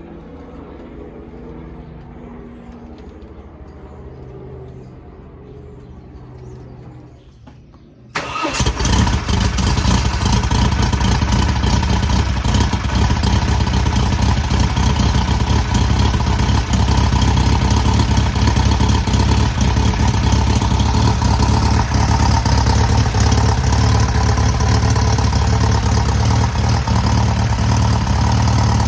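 Background music, then about eight seconds in a freshly rebuilt air-cooled VW 1600cc flat-four engine starts up suddenly on its first start and keeps running steadily and loudly.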